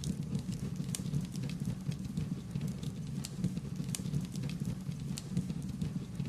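Wood fire crackling: irregular sharp pops and snaps over a steady low rush of burning flames.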